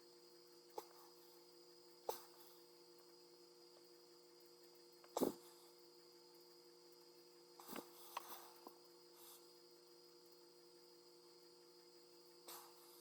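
Steady faint electrical mains hum with about seven short clicks and knocks, the loudest about five seconds in and a small cluster around eight seconds.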